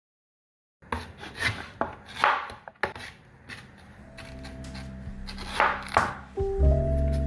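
After a brief silence, a few irregular knocks and scrapes on a hard surface. Background music with held notes fades in and becomes loud near the end.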